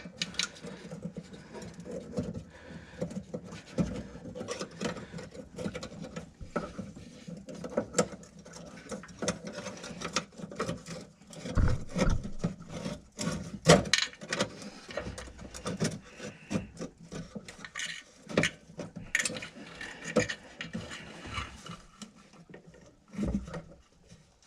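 Scattered clicks, taps and scrapes of hands and tools working on the fuel filter's line fittings and lock clips, with a few sharper knocks about twelve and fourteen seconds in.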